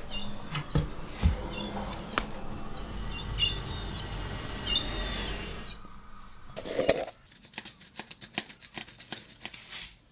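A seagull calling several times in short falling cries, over knocks and clatter with a low hum. From about seven seconds in comes a quick run of clicks and taps.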